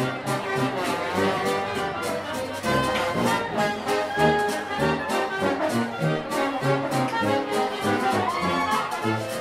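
Brass band playing an upbeat New Orleans-style jazz tune, horns over a steady beat.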